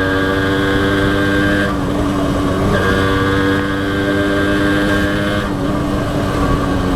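Honda H100S motorcycle's single-cylinder two-stroke engine running at a steady speed while riding, its note thinning briefly twice as the throttle eases.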